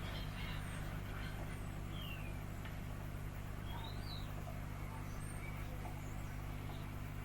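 N gauge model train running on the layout: a steady low hum with a few faint, short high-pitched squeaks.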